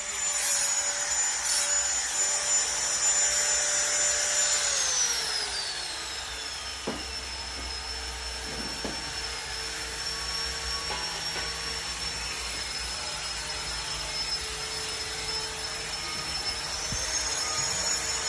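Electric power tool motor whining steadily. Its pitch drops about five seconds in as it takes load and climbs back near the end as the load comes off, with a few light knocks in between.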